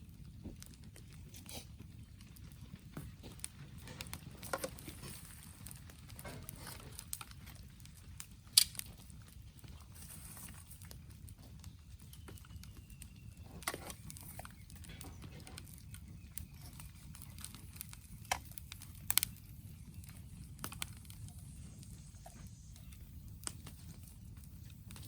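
Wood campfire burning, with a steady low rumble and scattered sharp crackles and pops, the loudest about a third of the way in.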